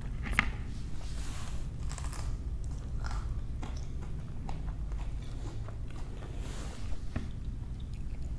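Close-miked eating sounds: biting into and chewing chicken shawarma and crisp cucumber, with scattered crunches and wet mouth clicks. The loudest is a sharp crunchy bite about half a second in.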